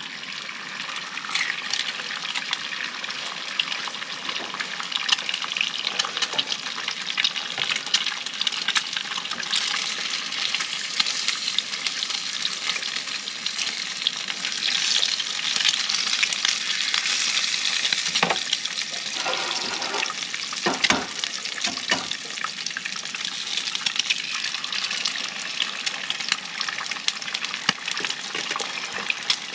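Eggs frying in a hot pan, a steady crackling sizzle, with a few knocks against the pan about two-thirds of the way through.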